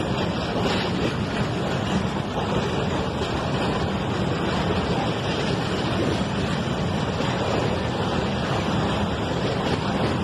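A freight train of tank wagons rolling past at close range: a steady rumble of steel wheels on rail.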